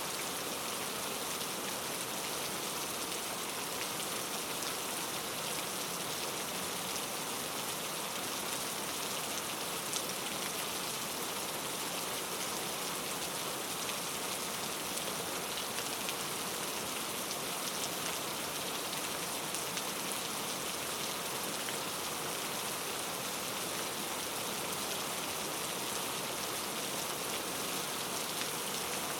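Steady rain falling, a continuous hiss of drops with fine individual drop ticks and no thunder.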